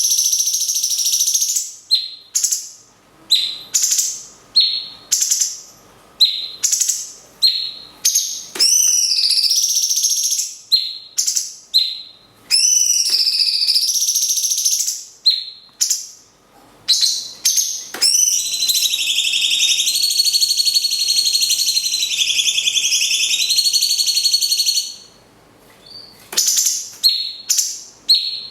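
Cage-bird song of a cucak cungkok and a lovebird in alternation. Many short, sharp, high calls are broken up by long, high chattering trills, one of them lasting about seven seconds in the second half.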